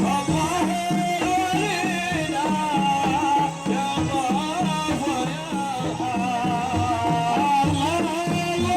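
Gulf Arabic folk band music: a steady percussion rhythm with a low repeating pattern under a wavering, ornamented melody line.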